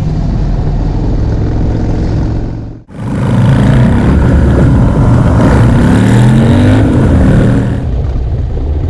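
Motorcycle engines running, with a brief dropout about three seconds in. After it comes a louder stretch where the engine pitch rises and falls as the throttle is worked, and it settles lower again near the end.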